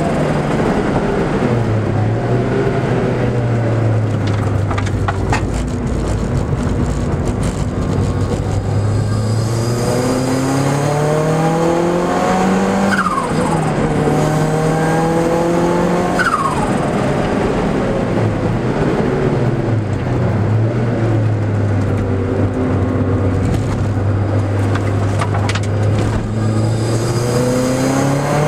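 Car engine heard from inside the cabin under hard driving. Its pitch climbs twice past the middle and drops sharply at each gear change, and it holds a steady lower note for long stretches either side.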